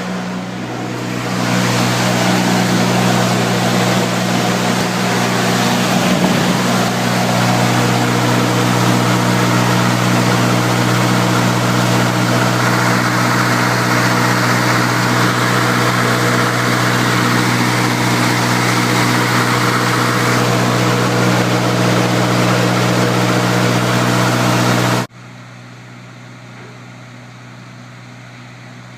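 John Deere diesel generator engine running at a steady speed while warming up after a cold start. About 25 seconds in the sound drops sharply to a much quieter level, the same steady engine tone continuing.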